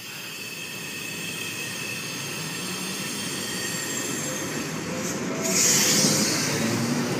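Sydney Trains V-set double-deck electric intercity train pulling away and gathering speed, getting steadily louder. About five seconds in a low motor whine starts rising in pitch, with a brief hiss just after.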